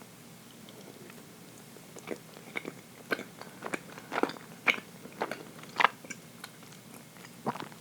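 Close-up chewing of a dense chocolate fondant cake: wet mouth clicks and smacks, about two a second, starting about two seconds in, with one more near the end.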